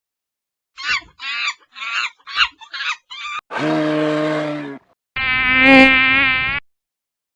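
Animal sound-effect clips in quick succession: a run of six short chirps, then two separate steady buzzes of about a second each, like flying insects.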